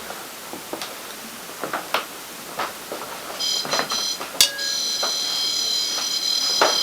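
Ghost-hunting proximity alarm box with a small antenna going off: a high electronic tone, first in a few short pulses, then held steadily from about halfway through. Light clicks and knocks come before it.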